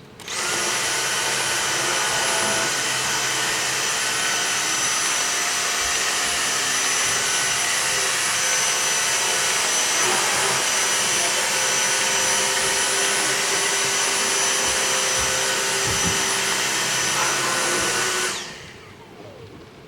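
Dyson DC62 cordless stick vacuum switched on and running steadily with a high-pitched whine, sucking dust out of a gap, then switched off and spinning down near the end.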